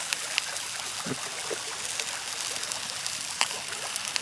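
Wood campfire crackling, with a few sharp pops over a steady hiss.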